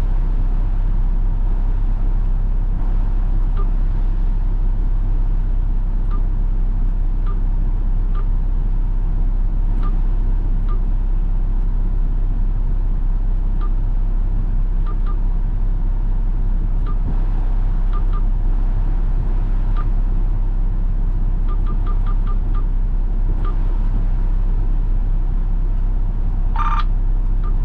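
Front-load garbage truck's engine running steadily, heard from inside the cab as a steady low drone. Faint scattered ticks come and go, and a brief high-pitched sound comes near the end.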